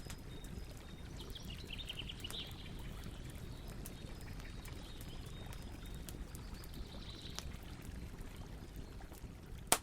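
Campfire burning with a steady low rumble and frequent sharp crackles, one loud pop near the end. A bird twitters briefly about a second and a half in.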